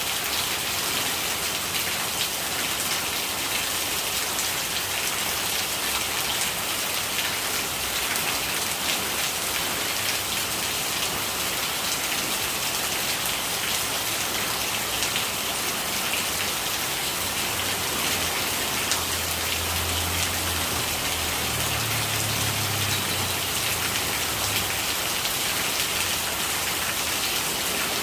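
Steady rain falling, a dense even hiss of drops striking surfaces with scattered sharper drip ticks. A faint low rumble comes in under it partway through.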